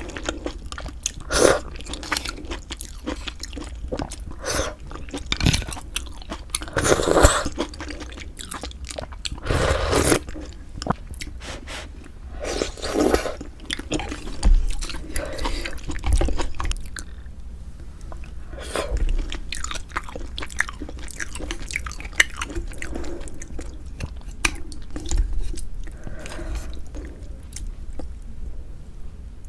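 Close-miked mouth sounds of eating pork bone soup with glass noodles: steady chewing with irregular wet clicks and smacks. There are a few louder bursts about a third of the way in and near the middle.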